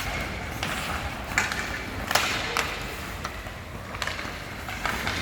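Ice hockey skates scraping and carving on the ice, with several sharp scrapes and a few knocks of sticks and puck over a steady rink background.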